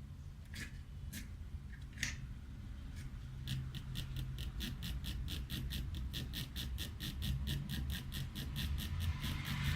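A few scattered clicks, then a fast, even run of mechanical clicks, about five a second, from a few seconds in, over a low steady hum.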